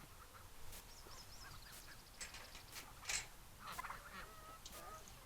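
Turkeys calling faintly, mixed with other high bird chirps, with a few light clicks and a brief rustling burst about three seconds in.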